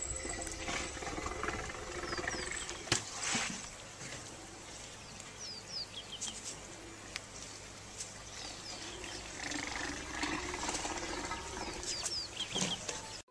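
Small birds calling in repeated pairs of short, falling chirps over a steady bush background, with a sharp click about three seconds in.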